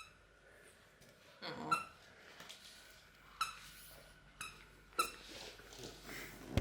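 A squeaky dog toy squeezed by a French bulldog puppy, giving several short, sharp squeaks at uneven intervals.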